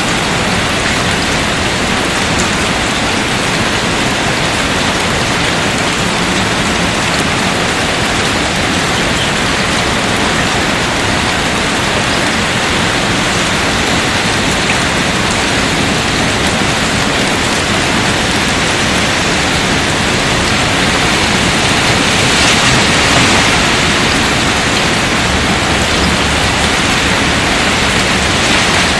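Steady rain falling, a dense even hiss that swells a little louder about three quarters of the way through.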